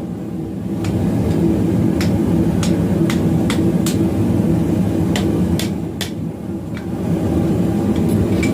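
Hand hammer blows on hot steel round bar at the anvil, irregular, about one or two a second with a short pause midway, over a steady low rumble.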